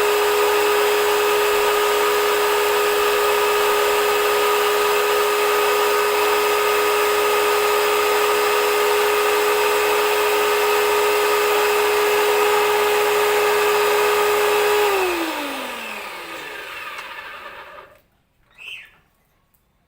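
Brushed electric motor of an H&L ABW VGS 70 high-pressure jet cleaner running with a steady whine. About 15 seconds in it is switched off and spins down, its pitch falling as it fades. A short sound follows near the end.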